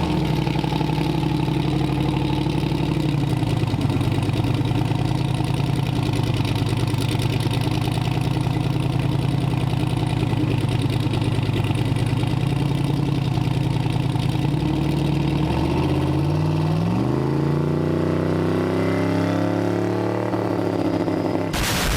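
Car engine idling steadily, then revving up smoothly over about three seconds and holding at the higher speed.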